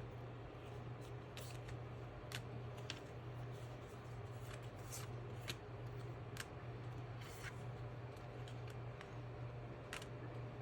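Tarot cards being handled and laid out, with scattered light snaps and taps a second or so apart, over a steady low electrical hum.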